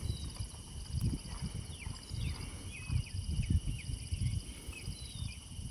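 Insects trilling steadily in a high, pulsing chorus, with short falling bird chirps scattered through it and irregular low rumbling thumps underneath.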